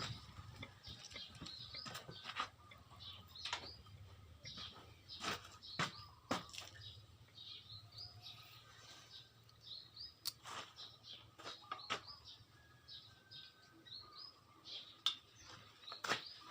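Small birds chirping repeatedly, with a few sharp clicks or taps scattered through.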